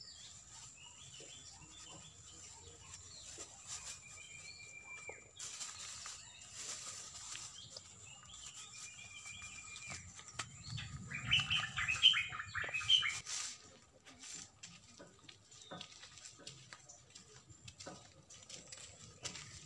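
Birds chirping and twittering, with a loud burst of rapid twittering about eleven seconds in. Under them a faint steady high tone, and a few brief rustles.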